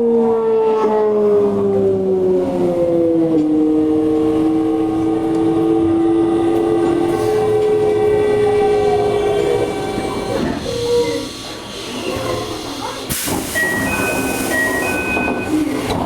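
Toei 5300 series electric train braking to a stop: the VVVF inverter and traction-motor whine falls steadily in pitch with a step about three seconds in, then fades out around ten seconds. A burst of hiss follows about thirteen seconds in, then a short electronic chime of alternating tones.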